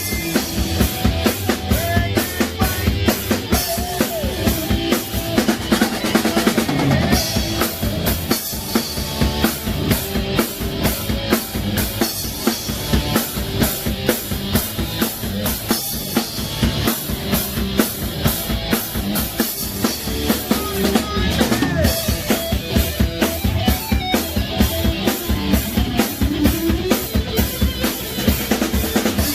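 Rock band playing live: a drum kit keeping a steady beat with regular cymbal strokes under electric guitar and bass, with gliding guitar or vocal lines over the top.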